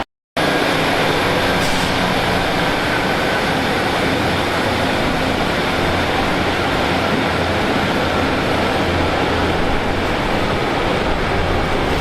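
Diesel train running steadily, an even rumble with a faint low engine note, after a brief cut-out at the very start.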